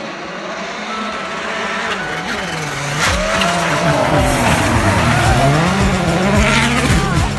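Race car engine revving hard, its pitch climbing and dropping repeatedly through gear changes, with tyre noise. It gets louder about three seconds in as the car comes closer.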